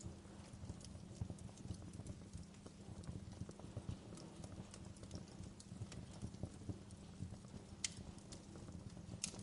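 Wood fire crackling in a fireplace: a steady low rumble of burning with scattered small pops and snaps, and two sharper pops near the end.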